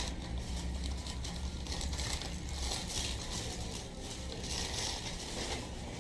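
Close-up crunching and crinkling from eating takeout food, in three or four short bursts, over a steady low hum.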